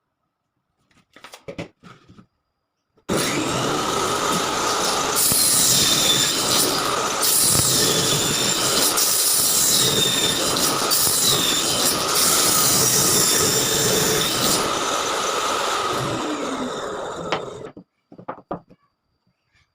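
Electric power tool running and working pallet wood, a steady machine tone under loud noise, with high-pitched swells about every two seconds as it passes through the wood. It starts about three seconds in and stops near the end, after a few light knocks of handling.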